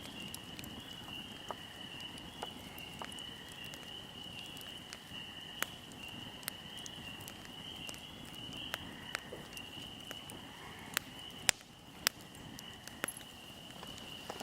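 Fire burning with irregular crackles and sharp pops, two louder pops in quick succession about three-quarters of the way through, over a low steady rush and a steady high-pitched whine.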